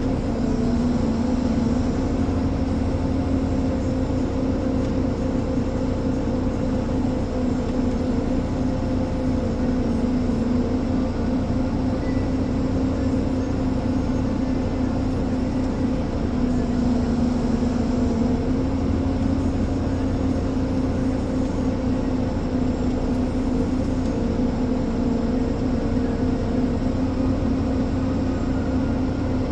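Ponsse Elephant forwarder's diesel engine running steadily as the machine drives along, a constant droning hum with little change in pitch or level.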